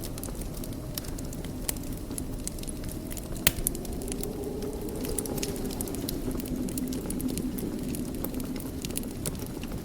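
Wood fire burning in a fireplace: a steady low rumble of flames with scattered crackles, and one sharp pop about three and a half seconds in.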